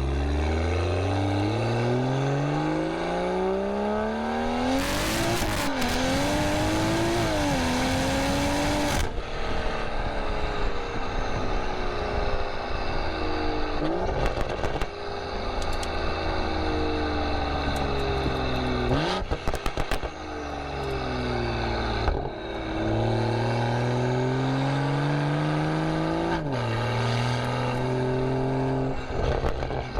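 BMW M340i's B58 turbocharged inline-six through a Valvetronic aftermarket exhaust, revving hard as the car accelerates, with a rushing noise over the engine for about four seconds during the pull. The engine note then falls away slowly, and climbs and drops again several times as it changes gear.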